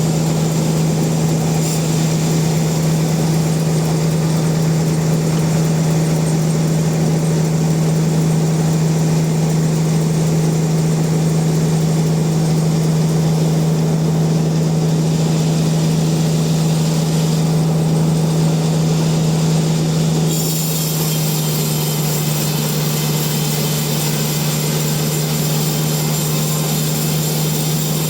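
Sawmill machinery running with a steady, loud drone and a constant low hum. About two-thirds of the way through, the sound changes slightly and a brighter hiss comes in.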